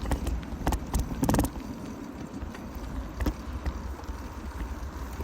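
Bicycle ridden over a bumpy dirt trail, filmed from a handlebar-mounted phone: irregular knocks and rattles as the bike and phone mount jolt, loudest about a second in, over a steady low rumble of wind and tyres on the microphone.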